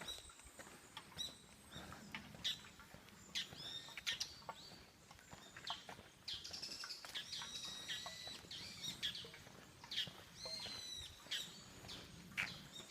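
Wild birds calling and singing: a steady stream of short, sharp chirps and whistled notes, a few held briefly, overlapping from more than one bird.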